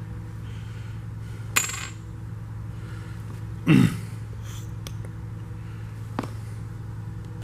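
Small metal parts clinking against each other and the transmission case as they are handled: a sharp ringing clink about a second and a half in, a louder sliding clatter around four seconds, and a light tick near six seconds, over a steady low hum.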